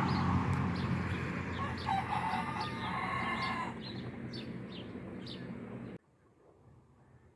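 Backyard chickens calling, with one drawn-out call about two seconds in, over repeated short high chirps and a noisy background; the sound cuts off suddenly about six seconds in.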